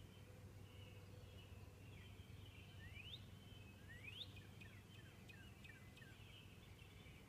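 Northern cardinal singing faintly: two rising whistled slurs, then a quick run of short falling notes. Behind it are a thin twitter of other birds and a low steady hum.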